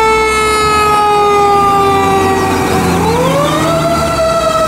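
Fire engine siren on a ladder truck pulling out of its station. The pitch slides slowly down, then climbs again about three seconds in, over a low engine rumble.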